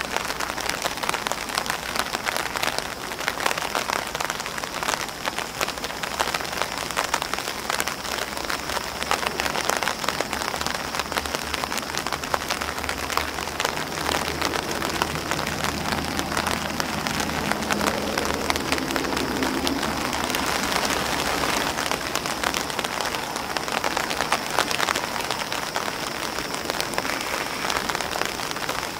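Steady rain falling on an umbrella canopy and on grass leaves: an even wash of rain with many separate drop taps.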